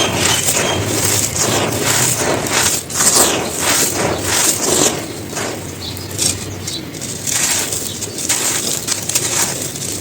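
Dry, gritty cones being crumbled and crushed, a continuous irregular crunching and crackling.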